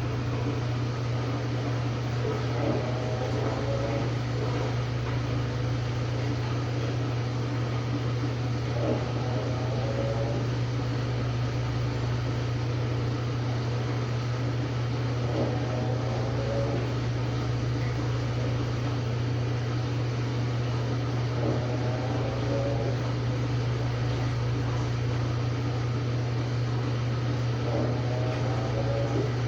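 Samsung WA45T3200AW top-load washer with an impeller running its cycle: a steady low motor hum, with a short rising whine about every six seconds.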